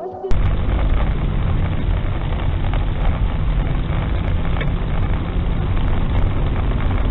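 Steady, muffled engine and road rumble of a moving car, recorded by a dashcam. It starts abruptly a moment in.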